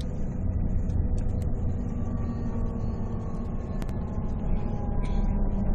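Volvo D13C 13-litre inline-six diesel engine of a Volvo 9700 coach running with a steady low rumble, and a faint whine slowly falling in pitch.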